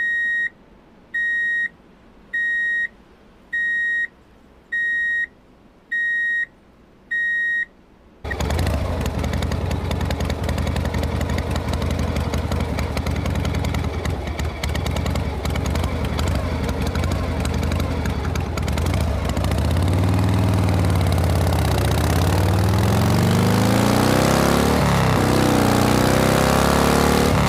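Seven electronic beeps on one high tone, about one every 1.2 seconds, then about eight seconds in a loud engine starts running and continues, its pitch wavering up and down near the end.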